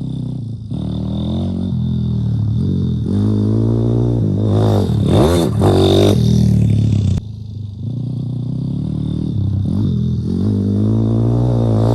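Single-cylinder four-stroke engine of a YCF 150 Supermoto pit bike revving up and down while being ridden. The throttle is shut sharply a little after seven seconds in, and the engine then builds revs again.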